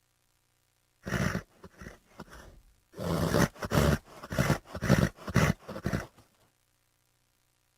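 Horse vocalizing: one short call about a second in, then a run of about seven short, rough pulses at roughly two a second, lasting some three seconds before it stops.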